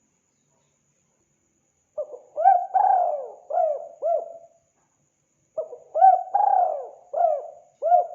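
Spotted dove cooing. Two phrases of about five coos each, the first about two seconds in and the second just past the middle, each lasting two to three seconds.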